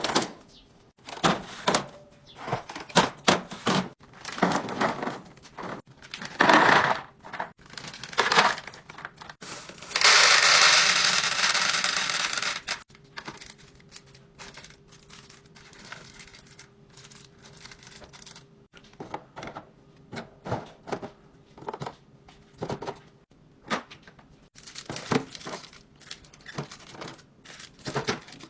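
Food packaging and containers being handled: plastic crinkling and tearing, with many short clicks and knocks as items are set down. About a third of the way in, a loud steady noise lasts about three seconds.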